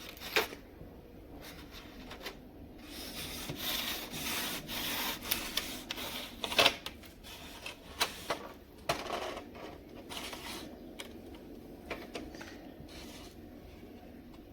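Rubbing and scraping as an LED tube light's parts are handled, with a few sharp clicks and knocks, the loudest about halfway through.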